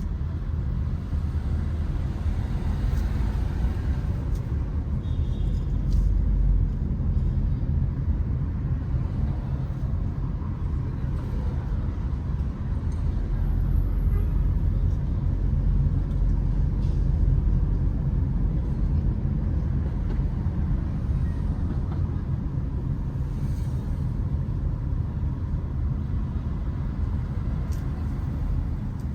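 Steady low rumble of motor vehicles on a city street.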